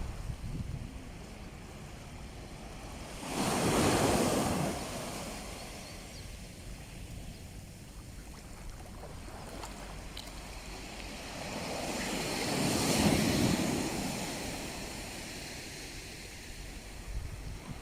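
Mediterranean Sea waves breaking on the shore: a steady wash of surf with two louder breakers about nine seconds apart. A low wind rumble sits on the microphone.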